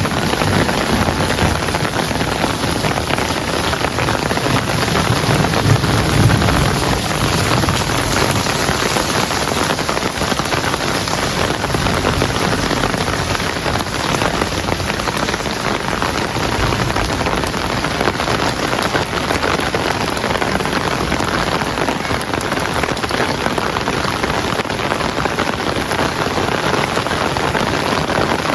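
Heavy rain falling steadily, a dense even hiss of drops on surfaces, with a low rumble under it in the first few seconds.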